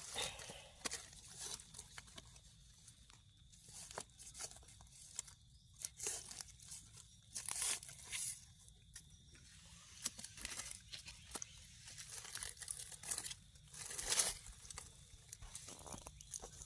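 Irregular rustling, crackling and crunching of dry leaf litter and forest-floor debris while termite mushrooms are dug from the soil.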